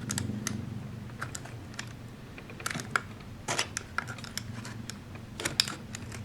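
Irregular light clicks and short scrapes of a craft knife working a moulded cobblestone sheet on a workbench, trimming off the moulding nubs and edges.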